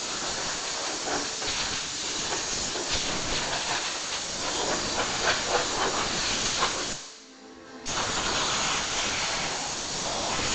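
Compressed-air blow gun blasting air over a freshly washed engine bay to drive the water out, a steady hiss. The air cuts off briefly about seven seconds in, then starts again.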